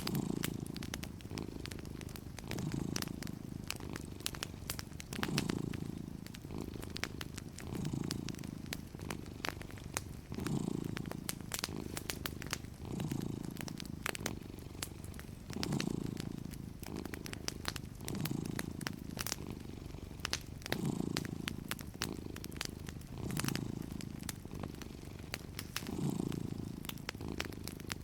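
A cat purring steadily, its low rumble swelling and easing with each breath about every two and a half seconds, over the light crackle and small pops of a wood fire.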